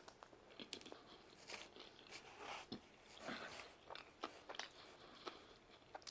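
Faint close-up chewing of pizza: soft, irregular mouth clicks and smacks as a mouthful is chewed.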